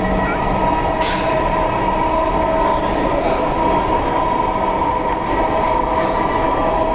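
Dhaka Metro Rail train running: a steady rumble with a constant electric whine held throughout, and a short sharp clank about a second in.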